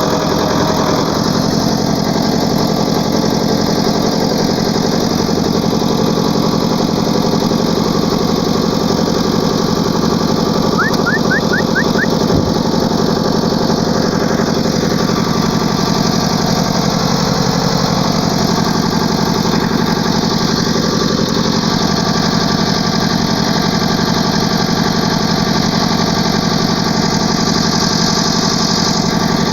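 Ford 5000 tractor engine running steadily at an even speed.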